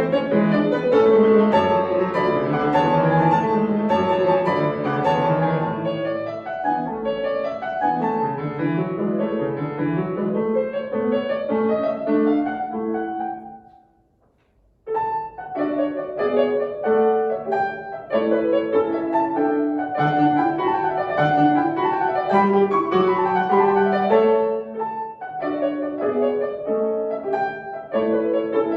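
Solo acoustic piano playing classical music. About halfway through, the playing dies away into a second of silence, then the piano starts again.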